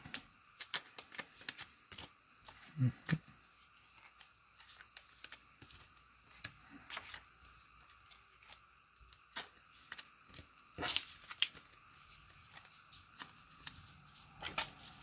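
Trading cards being handled: scattered light clicks and short scraping rustles of cards sliding against each other.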